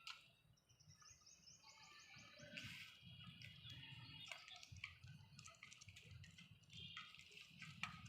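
Budgerigars chirping and chattering faintly in quick high notes, with a short run of rapid rising notes about a second in and a few sharp clicks.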